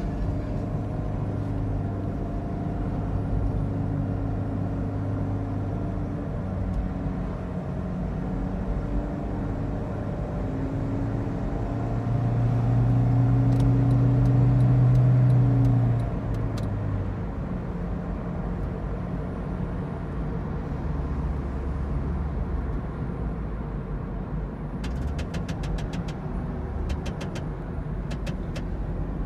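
2009 Honda Insight hybrid's drivetrain (88 PS petrol engine with CVT) running with a steady drone, which the owner takes for a bad sound from the CVT. A louder hum swells for about four seconds around the middle, and short runs of faint ticks come twice, the second near the end.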